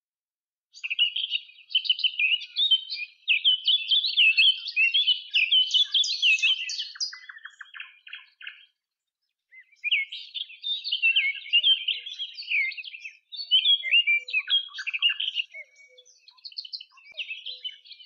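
Small songbirds chirping and twittering in fast, dense runs, with a break of about a second near the middle.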